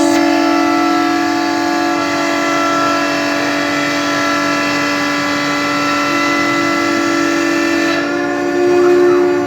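CNC router spindle running at a steady high-speed whine with its bit milling 15 mm plywood, a cutting hiss under the tone. About eight seconds in, the hiss thins and the whine briefly gets louder.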